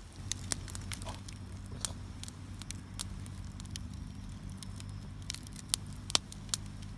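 Wood fire crackling and popping under a grill, with sharp irregular pops, the loudest near the end, over a low steady hum.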